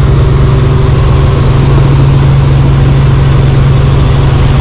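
Helicopter in flight: a loud, steady drone of engine and rotor, with a strong low hum and a fast low beating beneath it.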